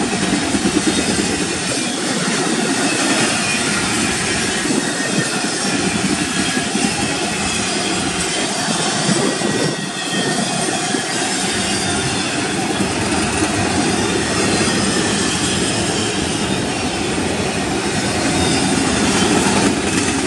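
Double-stack intermodal container well cars of a freight train rolling past steadily, steel wheels running on the rails.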